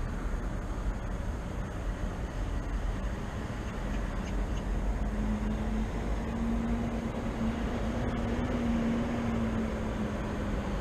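Steady low rumble of city traffic. From about five seconds in, a vehicle engine's steady hum comes up over it.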